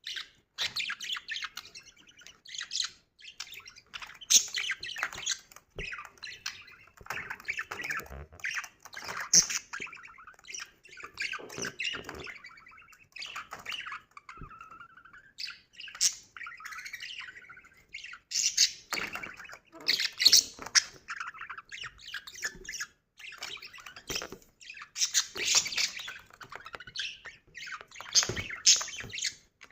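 Budgerigar chatter: rapid chirps, warbles and squawks coming in irregular bursts.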